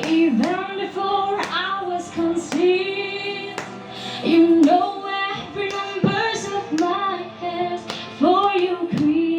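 A female voice singing a slow, sustained worship-song melody over held backing tones.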